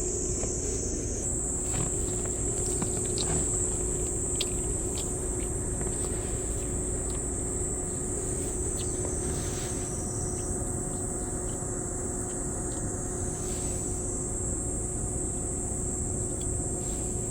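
Steady, high-pitched chorus of insects droning without a break over a low background hum, with a few faint short clicks.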